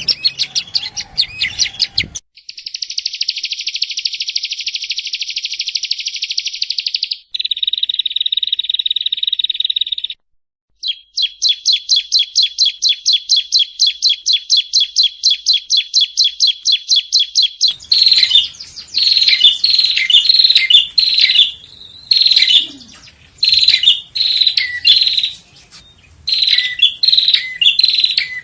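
Yellow-bellied prinia song in a spliced sequence of recordings. Fast buzzy trills come first, then a run of sharp repeated notes about four a second, then louder short phrases of sharp notes from about two-thirds of the way in. The segments are separated by abrupt cuts and a brief silence.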